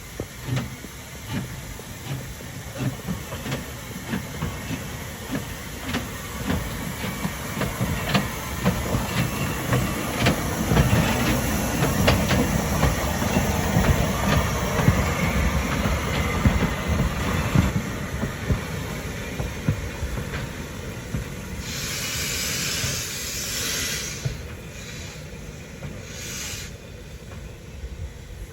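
Steam locomotive Furness Railway No. 20 working a train, its exhaust beats mixed with the clatter of wheels over rail joints, growing louder toward the middle and then fading. Near the end there is a two-second hiss of steam, followed by two short hisses.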